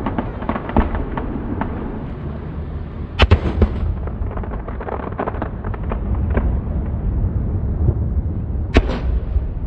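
Aerial fireworks shells bursting: a string of crackling pops and booms over a steady low rumble, with two sharp, loud bangs, one about three seconds in and one near the end.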